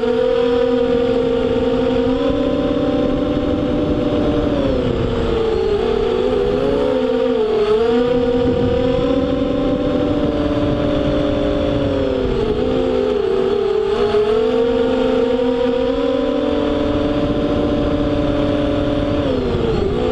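FPV racing quadcopter's brushless motors and propellers whining loudly, the pitch dropping and climbing again every few seconds as the throttle is eased and pushed through the turns of an oval lap.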